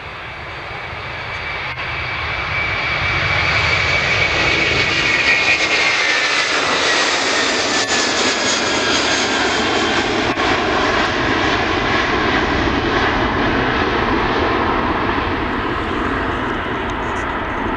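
Airbus A330-300 twin-engine jet airliner on its takeoff run. The engine roar swells over the first few seconds and a high whine falls in pitch as the plane passes, then the roar holds steady and loud.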